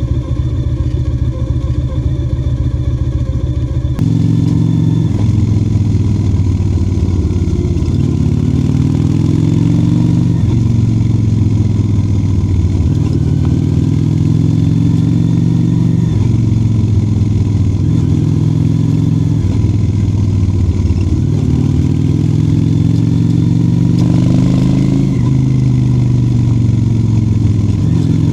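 Honda motorcycle engine under way. It holds a steady note for about four seconds, then rises in pitch as it accelerates and drops back at each gear change, several times over.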